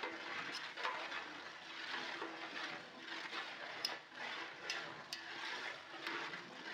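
Green masala paste sizzling in hot oil in a large metal pot as it is stirred with a metal ladle, a steady hiss with scattered clicks of the ladle against the pot.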